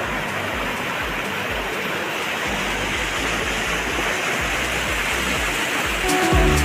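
Steady rush of fast-flowing floodwater in a rain-swollen river. Low background music notes sit beneath it and grow louder near the end.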